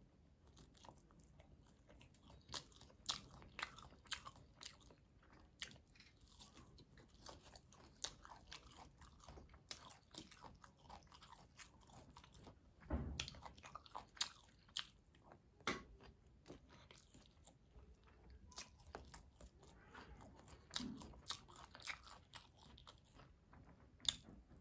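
Close-miked sounds of mouthfuls of mutton biryani eaten by hand: wet chewing, lip smacks and small crunches in irregular quick clicks. A louder dull knock comes about halfway through.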